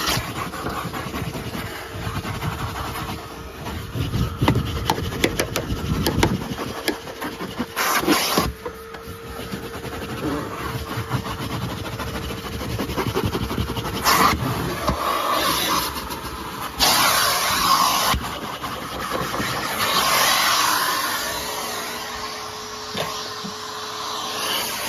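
1997 Numatic Henry vacuum cleaner running with a steady motor hum, its nozzle rubbing and scraping over the car's surfaces. The rush of air changes sharply several times as the nozzle is moved or lifted.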